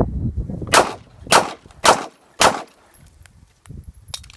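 Four shots from a Ruger LCP .380 ACP pistol, fired about half a second apart. They are followed near the end by small metallic clicks of a magazine change.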